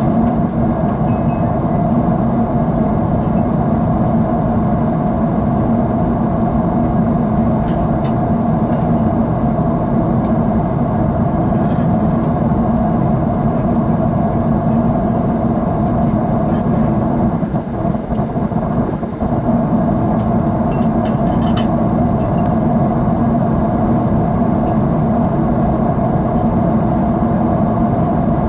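Steady rushing noise of jet engines and airflow heard inside an airliner cabin in flight, with a deep low hum under it. It dips briefly a little past the middle, and a few faint clicks sound over it.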